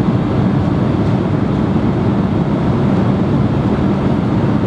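Steady airliner cabin noise in flight: a constant low rumble of engines and rushing air, heard from inside the passenger cabin.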